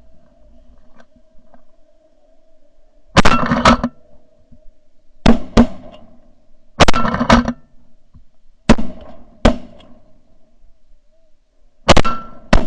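Shotgun volley in a snow goose hunt: many sharp blasts in ragged clusters, several close together about three seconds in, then more pairs and single shots through to the end.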